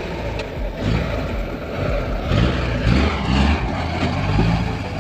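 Truck engine running, its note rising and falling, with a short click about half a second in.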